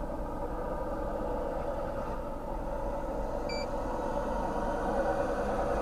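A vehicle engine idling steadily, with one short high-pitched beep about three and a half seconds in.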